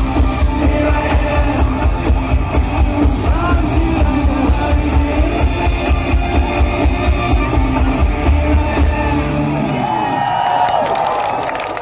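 A live hard rock band playing loud with a steady heavy drum beat and electric guitars. About ten seconds in the drums stop and a guitar holds bending notes.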